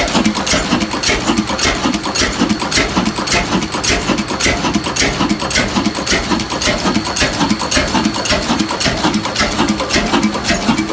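Old 22 hp engine running at a slow, even pace, with a sharp regular knock about two to three times a second.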